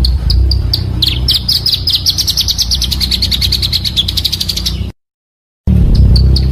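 Pancawarna bird song of the kind used as a lure call: separate high chirps, then from about a second in a fast high trill lasting some four seconds. The trill cuts off into a moment of dead silence, and the chirps start again near the end, over a steady low hum.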